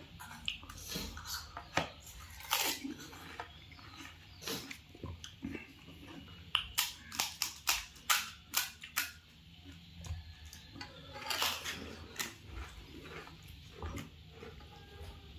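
Pani puri being eaten close to the microphone: crisp hollow puris crunching as they are bitten, then chewed wetly. A quick run of crunches comes around the middle.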